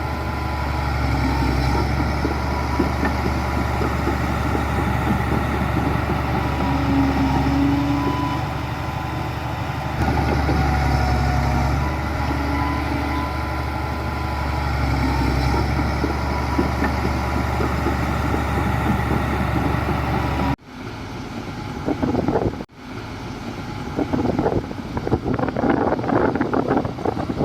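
Diesel engines of heavy earthmoving machinery running steadily. Near the end the sound cuts off abruptly twice and gives way to irregular clattering and scraping over a lower engine drone.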